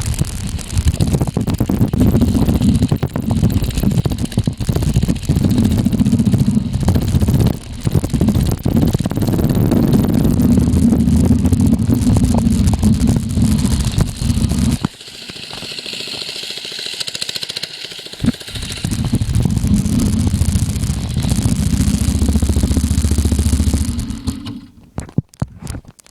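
Baja mini bike's small single-cylinder engine running while ridden, with rough wind flapping on the microphone. It goes quieter for a few seconds a little past midway, comes back, then falls away with a few clicks near the end.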